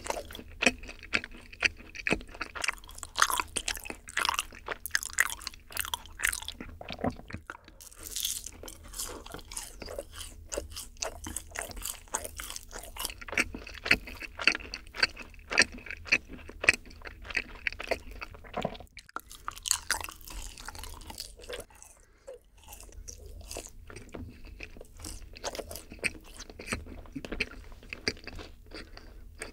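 Close-miked chewing and biting of yakgwa, Korean honey-fried cookies, as a run of many short sharp mouth clicks, with a brief lull about three-quarters of the way through.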